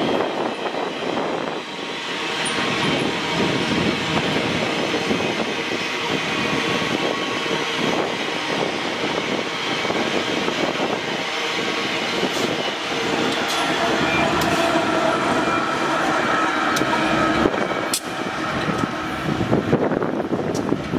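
Freight wagons of a long train rolling past: a steady rumble and rattle of steel wheels on rail, with thin squealing tones from the wheels and a few sharp clanks in the second half.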